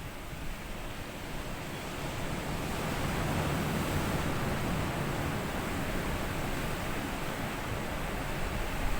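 Small sea waves washing up on a sandy beach: the surf noise swells over the first few seconds, holds, and another wave surges in near the end. Some wind rumble on the microphone.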